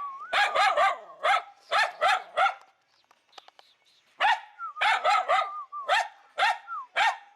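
A dog barking in quick runs of short, high barks, with a pause of about a second and a half midway. A high, wavering whine sounds between the barks.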